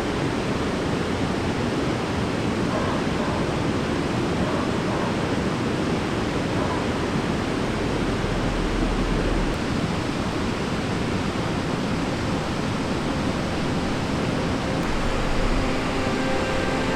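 Creek water flowing, a steady rushing with no pauses. Music comes in near the end.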